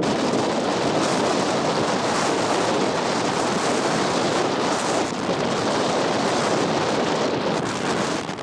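Strong coastal wind buffeting the microphone, a loud, dense, steady rush of noise, with surf from the beach mixed in.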